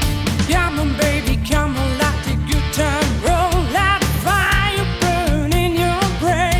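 Rock song: a singing voice with wavering held notes over drums and a steady, driving beat.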